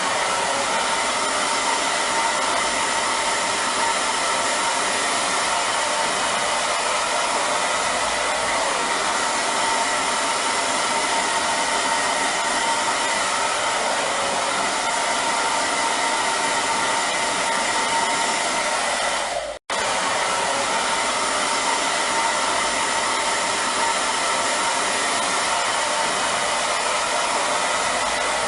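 Hair dryer running steadily: an even rush of air with a faint motor whine. It drops out for an instant about two-thirds of the way through and resumes at once.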